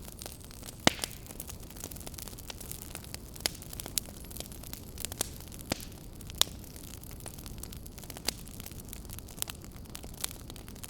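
Wood fire crackling: irregular sharp pops and snaps over a steady low rumble and hiss, with the loudest pops about a second in and past six seconds.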